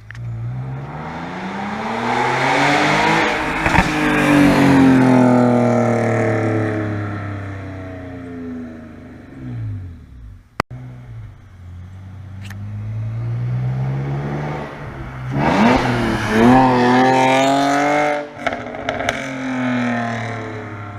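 BMW E46 exhaust with muffler and resonator deleted, a Y-pipe and aftermarket headers, heard under two hard accelerations. The first climbs for a few seconds and then eases off slowly. A sharp crack comes about midway. The second pull rises steeply and cuts off abruptly, followed by a few exhaust pops.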